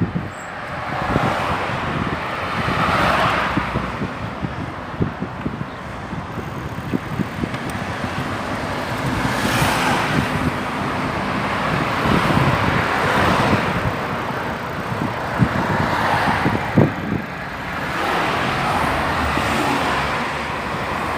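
Cars passing by on a road, about five in turn, each swelling and fading away. Under them runs a steady low rumble of wind and road, with small knocks from riding a bicycle.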